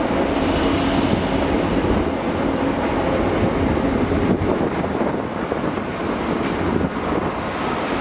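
Transport for Wales Class 175 diesel multiple unit running slowly past over the station pointwork. A steady rumble of diesel engines and wheels on rail, with a low steady hum.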